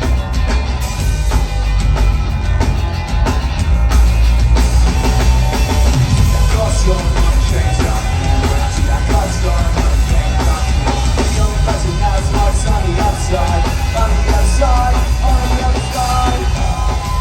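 A live rock band playing loudly, with heavy drums and bass throughout and a wavering pitched line, such as a voice, joining in about six seconds in.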